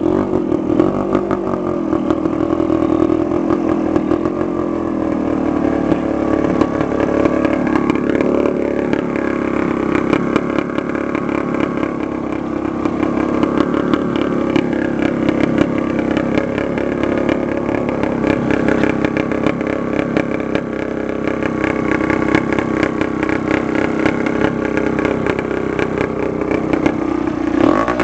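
Dirt bike engine running steadily under way, its pitch dipping and climbing a few times with the throttle and rising sharply near the end as it revs up.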